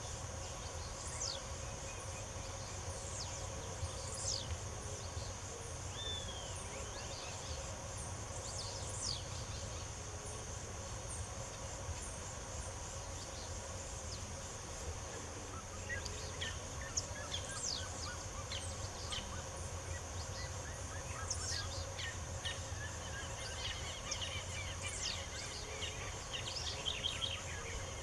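Several wild birds chirping and whistling, with short calls throughout and quick descending trills in the second half, over a steady high-pitched background hum and a low rumble.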